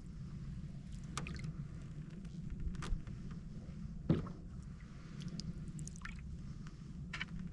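A canoe being paddled on calm water: small drips and trickles off the paddle and light ticks of water, with one louder knock against the hull about four seconds in, over a steady low rumble.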